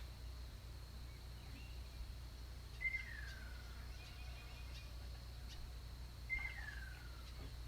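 A bird calling twice, about three and a half seconds apart, each call a single clear whistle that slides steadily down in pitch. Under it runs a steady low outdoor rumble.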